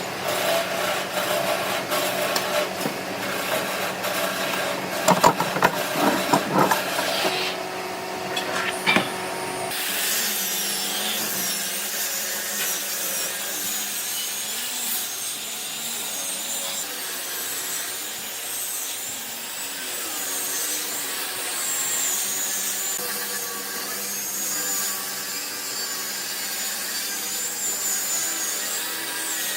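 Tools working old wood: a few sharp knocks about five to seven seconds in and once more near nine seconds, then a steady sawing or rubbing on the wood from about ten seconds in.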